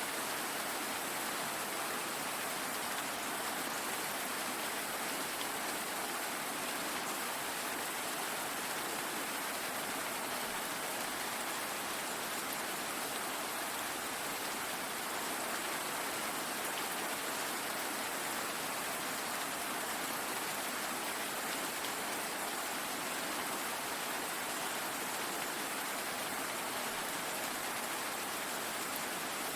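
Steady rainfall, an even hiss of countless drops with no thunder or single standout sounds.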